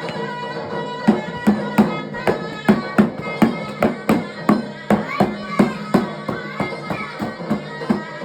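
Davul and zurna music: a shrill zurna melody held over a bass drum beat. The drum strokes come in about a second in and go on at a steady two to three a second.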